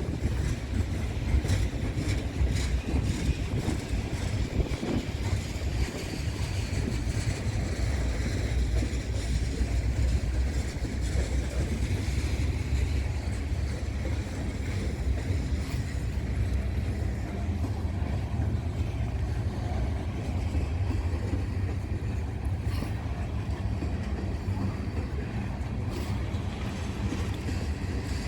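Norfolk Southern coal train's hopper cars rolling past: a steady low rumble with the wheels clicking over rail joints.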